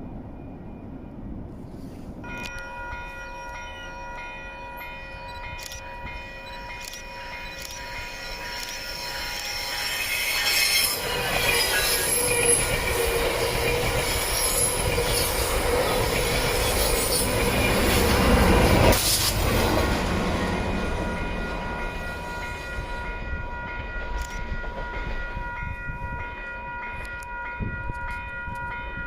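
A train passes close by, loudest in the middle and fading after. A steady high-pitched ringing of several tones holds throughout, and there are a few sharp clicks from the rails early on.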